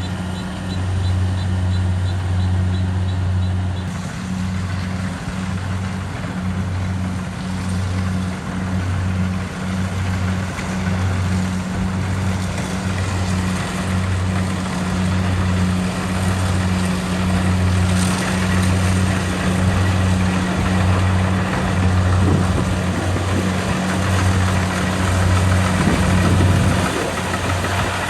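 Kubota DC70 Pro combine harvester's diesel engine running steadily with a constant low drone.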